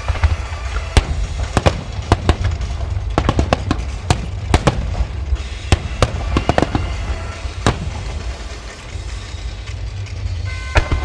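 Starmine fireworks barrage: many shells bursting in quick, irregular succession, sharp bangs over a continuous deep rumble, with music playing underneath.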